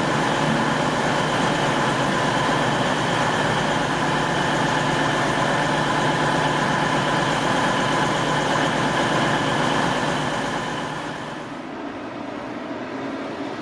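Diesel train engine running steadily with a droning, several-toned note. It falls away and quietens about eleven seconds in.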